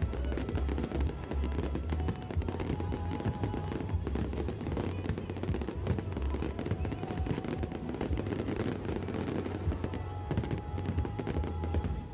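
Fireworks going off in a rapid, dense volley of bangs, many a second, over background music.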